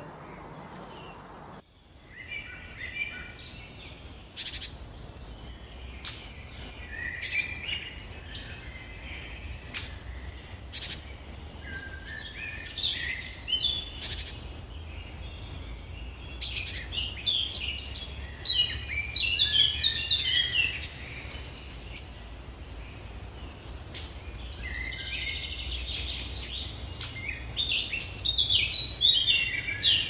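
Small songbirds chirping: many short, high chirps and quick runs of notes, starting about two seconds in, over a low steady rumble.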